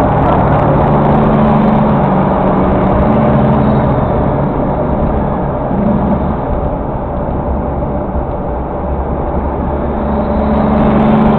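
Car driving at speed, heard from inside the cabin: a steady engine and tyre drone, with the engine's hum rising and falling as the car speeds up and eases off.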